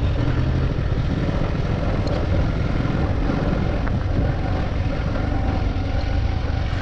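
Motorcycle running steadily on the move, its engine hum under a continuous rush of wind noise on the microphone.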